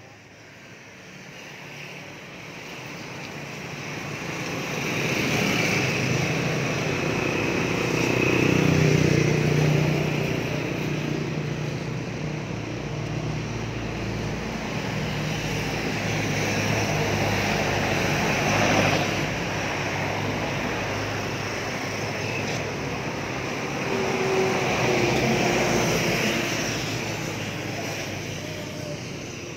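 Motor vehicles passing along a street, with engine hum and tyre noise swelling and fading several times as they go by.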